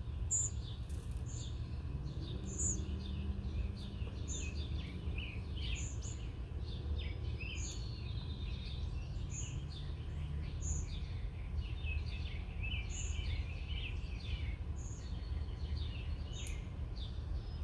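Small wild birds chirping and twittering, several calls overlapping throughout, with a high note repeating about once a second and a steady low rumble underneath.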